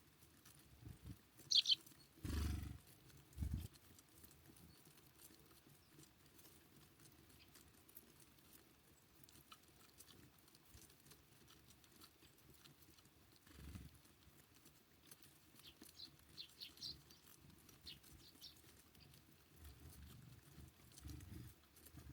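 Small songbirds at a feeder giving a few brief, high chirps: one about a second and a half in and a short run of three or four near the middle of the second half. Two low, muffled thumps sound about two and three and a half seconds in, and faint light ticks are scattered throughout.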